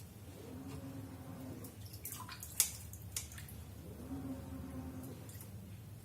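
Wet clicks and small taps of raw shrimp being peeled by hand, with water dripping.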